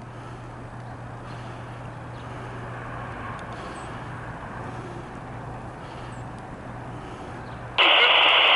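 Steady vehicle engine hum with a noise rumble. Near the end comes a sudden loud burst of static from a two-way radio keying up.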